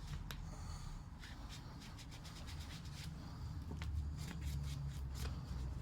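A wet rag rubbing and wiping a surface clean, with light scattered clicks of handling.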